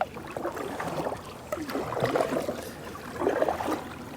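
Canoe paddle strokes in the water, with splashing and dripping; a stroke comes about every second and a half.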